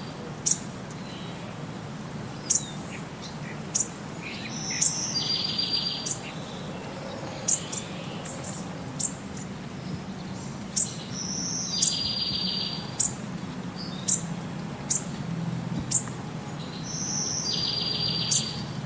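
Bird calls: short, sharp, high chirps every second or two, and a buzzy call about a second long that repeats roughly every six seconds, over a steady low hum.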